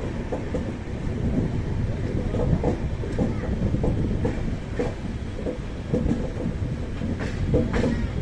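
Poorva Express passenger train running on the rails, heard from a coach doorway: a steady low rumble of the coaches with irregular wheel clicks and knocks over the rail joints, a few sharper knocks near the end.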